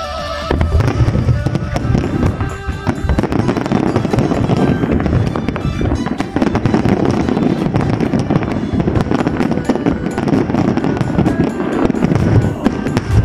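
Aerial fireworks going off continuously in a dense run of crackles and bangs over a low rumble, with music playing beneath.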